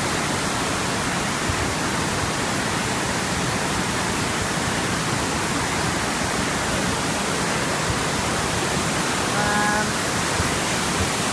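Steady rush of fast-flowing floodwater, a constant even noise. A brief pitched call, like a distant voice, sounds for about half a second near the end.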